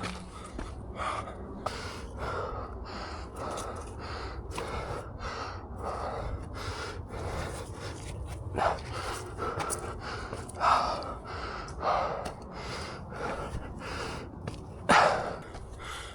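A runner's heavy, panting breaths, with several louder exhales, over footfalls on a dirt trail about twice a second.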